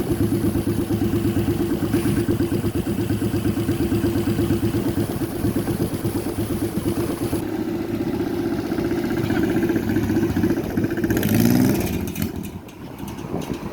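A 1000cc car engine fitted in a custom motorcycle, running with a steady, fast, even pulse. About eleven seconds in it revs up briefly, then the sound drops away near the end.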